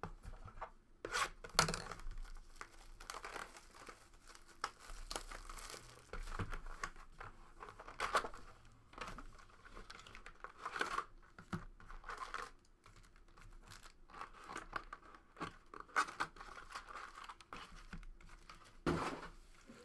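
Trading card pack wrappers being torn open and crinkled, in irregular short crackles.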